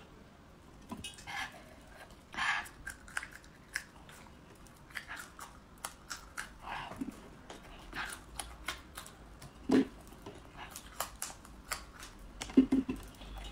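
Raw red chili peppers being bitten and chewed: irregular crisp crunches and wet mouth clicks, with a few louder mouth noises.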